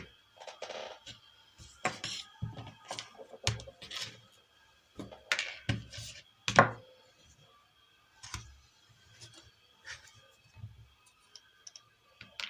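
Irregular clicks, knocks and light scrapes of tools and parts being handled during work on a microwave inverter board, about a dozen short sounds with the loudest knock a little past the middle.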